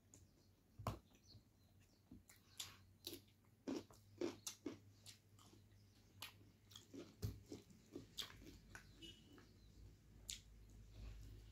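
Faint close-up eating sounds of a person chewing rice and chicken: irregular soft wet mouth clicks and smacks, a dozen or so spread through.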